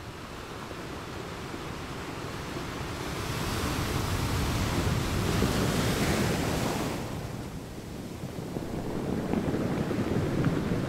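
Wind on the microphone over choppy sea, with waves washing. It swells into a loud hiss midway, drops off suddenly about seven seconds in, and a low rumble builds near the end.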